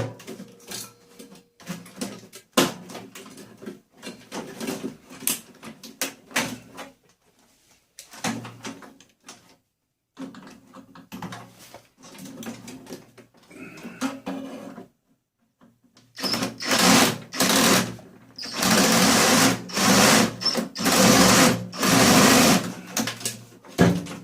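Clicks and rattles of parts being handled and taken apart, then, about two-thirds of the way in, a small power tool running in several loud bursts of about a second each.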